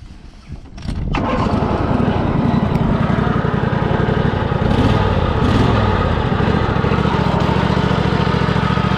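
Converted ride-on lawn mower's 13-horsepower engine starting about a second in, then running. Its pitch wavers up and down for a few seconds before settling to a steady run.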